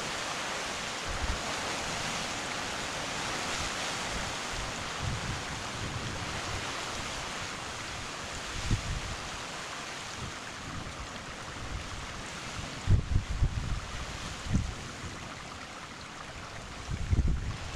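Heavy rain falling as a steady, even hiss, with gusts of wind rumbling on the microphone now and then, strongest about 13 seconds in and near the end.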